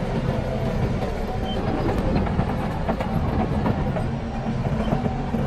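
Crawler bulldozer (Shantui DH17C) working: its diesel engine runs steadily under load, with the clatter of its steel tracks.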